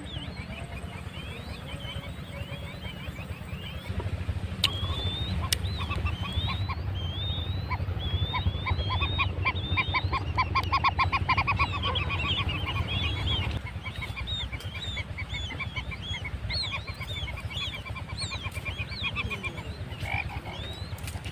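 Quail chick peeping over and over in short, high, curving chirps: the distress calls of a chick separated from its mother. In the middle a fast pulsing trill joins the chirps.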